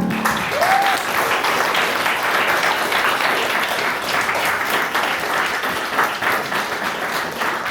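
Audience applauding at the end of a sung piano-accompanied number, a steady dense clapping, with a brief rising-and-falling call from the audience about a second in.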